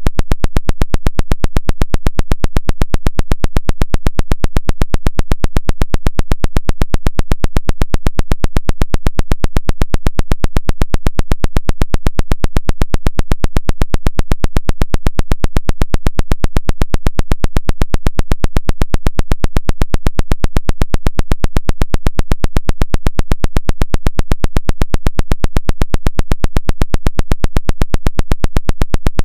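A 'woodpecker' jamming signal: a loud, rapid, perfectly even train of sharp clicking pulses, several a second, going on without a break.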